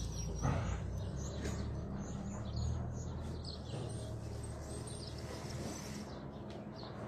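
Small birds chirping repeatedly over a low steady rumble, with a single thump about half a second in.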